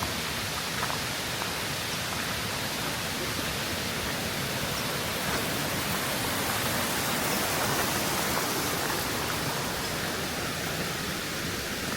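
Saut du Day waterfall rushing: a steady, even roar of falling water.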